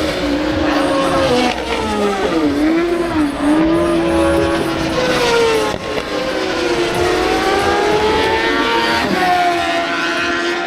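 Several racing motorcycle engines running at high revs, their pitch dipping and rising again as they slow and accelerate around the track.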